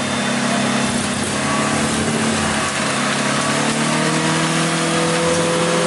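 Off-road jeep engine running steadily over a dense hiss. Its pitch dips about two seconds in and climbs again near the end.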